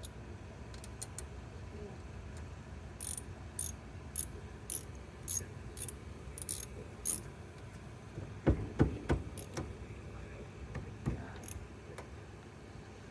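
Light metallic clicks, about two a second, then a few louder metal clanks: hand tools and parts being handled during rear brake work.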